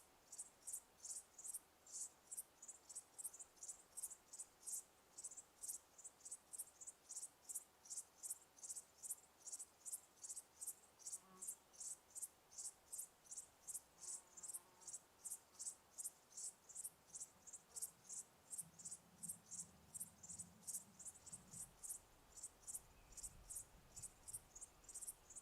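Cricket chirping steadily, short high-pitched chirps repeated about two to three times a second. A faint low rumble comes in about two-thirds of the way through.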